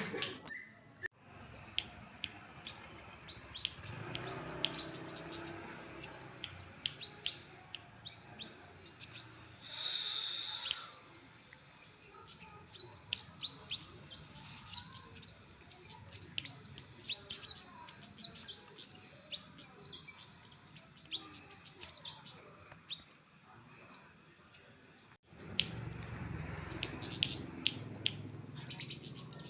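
Kemade jawa songbird singing a long run of rapid, short, high-pitched chirps, several a second, with a brief rustle about ten seconds in.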